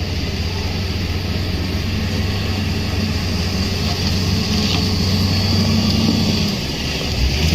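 A steady, low engine-like drone that dips briefly about seven seconds in and then resumes.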